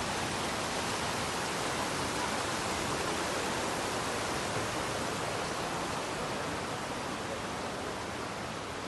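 Steady rushing of a waterfall, an even wash of falling water that eases slightly near the end.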